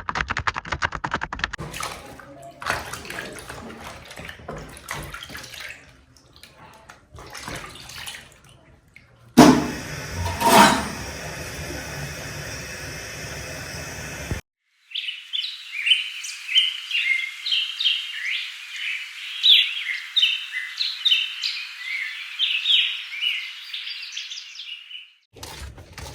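Computer keyboard typing at the start, then faint handling sounds, then running water from about nine seconds in, cutting off after five seconds. After that come about ten seconds of birds chirping.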